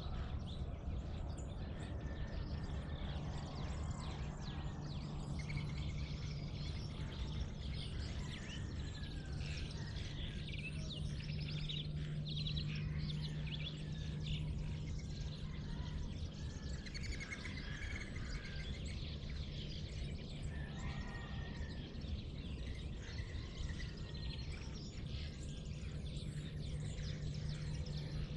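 Dawn chorus of many birds chirping and singing, calls overlapping throughout, over a steady low hum.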